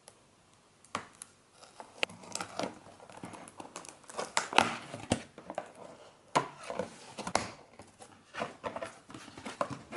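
A cardboard box being opened and its packaging handled: sharp clicks and scrapes of cardboard with irregular bursts of rustling, starting about a second in.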